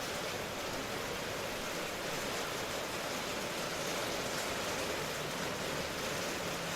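Steady rain, an even hiss with no separate drops or changes standing out.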